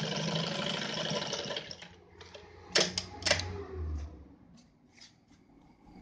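Yamato 673 zigzag sewing machine stitching at a fast, steady rate, then stopping after about a second and a half. A few sharp clicks and knocks follow about a second later as the machine is handled, then some fainter ticks.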